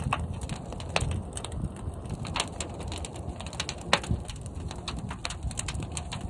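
Fire burning in a large kiln: a steady low rumble of the flames with frequent sharp crackles and pops scattered irregularly through it.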